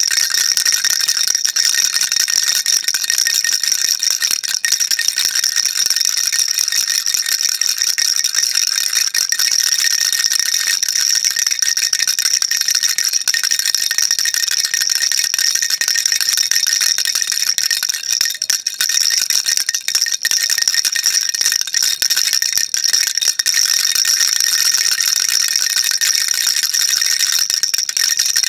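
Baby rattle shaken without pause, a dense, continuous high rattle of small beads inside it.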